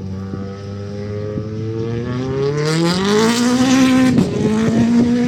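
A rally car approaching at speed on a stage, its engine climbing in revs and getting louder. The engine note dips briefly about four seconds in, then holds high.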